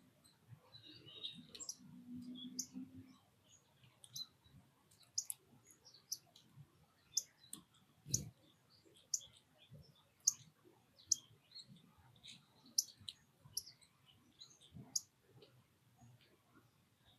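Short, sharp high-pitched bird chips repeating irregularly, roughly one or two a second, with a brief low hum about two seconds in.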